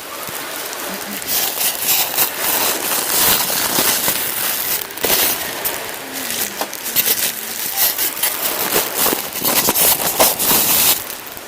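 Dense plastic crinkling and crackling close to the microphone, full of sharp crackles, as a styrofoam cup is pulled from its packaging.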